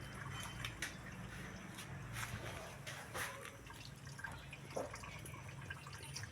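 Liquid dripping and splashing in irregular small drops, with scattered light knocks, over a steady low hum.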